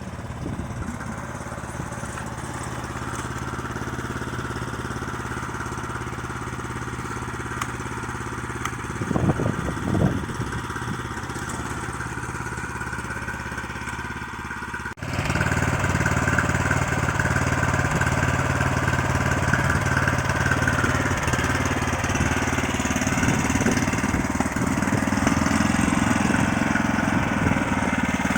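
Neva MB23 walk-behind tractor's engine running steadily, with a brief louder surge about nine seconds in. About halfway through the sound cuts abruptly to a louder, closer run of the same engine.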